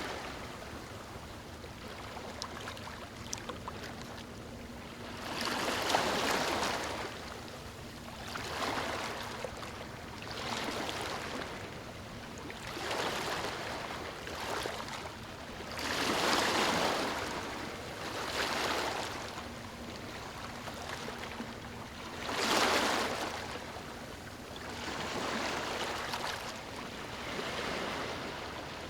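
Gentle waves lapping on a beach, each wash swelling and fading every two to three seconds, with a few larger ones among them.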